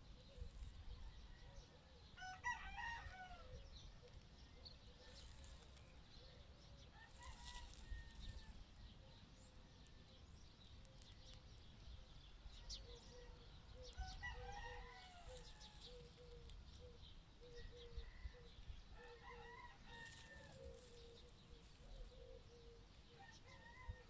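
Faint distant bird calls, about five short calls several seconds apart, over a low rumble of wind.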